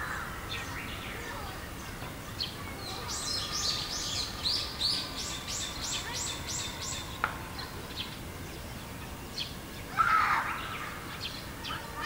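Wild songbirds calling outdoors: scattered short high chirps, a quick run of about a dozen repeated high notes from about three to seven seconds in, and a louder, lower call about ten seconds in.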